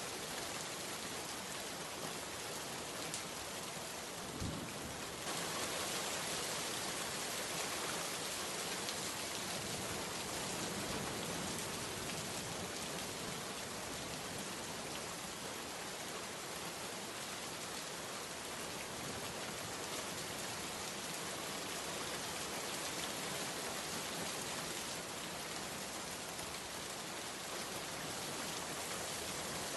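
Steady heavy rain pattering on surfaces, a dense even hiss, with a brief low thump about four seconds in.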